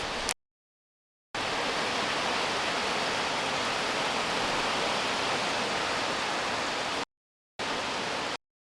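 Heavy rain pouring down steadily, a dense even hiss. It is broken by sudden gaps of dead silence, one of about a second shortly after the start and two short ones near the end.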